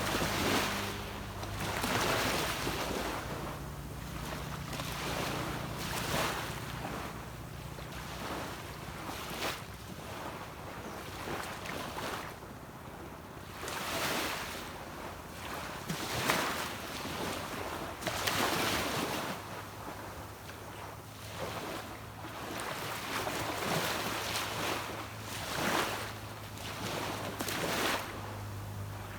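Small sea waves breaking and washing up a beach, one swell every second or two, with the low steady hum of a distant boat engine under them at the start and again through the second half.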